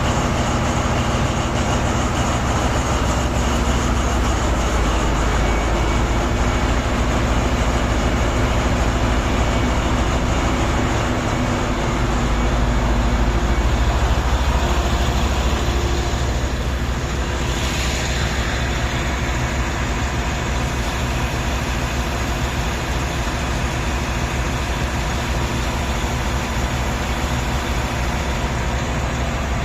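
Large diesel engine running steadily with a deep rumble. It pulls a little harder from about twelve seconds in, and a short hiss comes around seventeen seconds.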